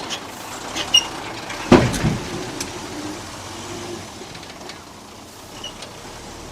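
Heavy earth-moving machinery working, with a steady mechanical background, a few sharp metallic clicks, and one loud clank with a deep rumble about two seconds in.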